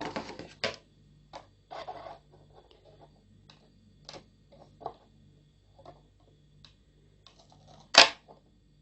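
Scissors snipping through a plastic soft-drink bottle: a string of separate sharp clicks and crinkles, the loudest near the end.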